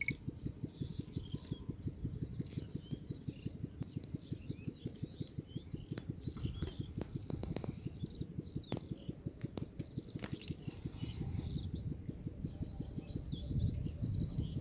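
Small birds chirping and twittering over a steady low rumble that pulses evenly a few times a second, with a few sharp clicks in the middle.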